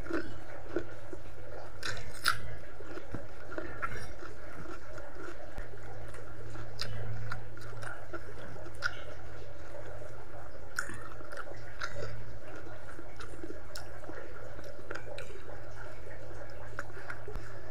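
Close-miked mouth sounds of a person eating by hand: chewing, with scattered wet smacks and clicks. A steady low hum runs underneath.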